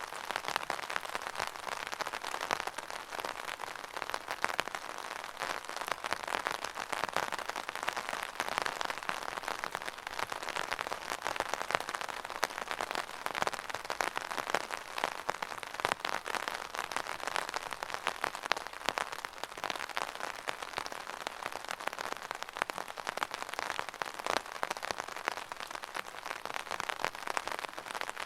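Steady rain with a dense patter of drops on a hard surface, unchanging throughout.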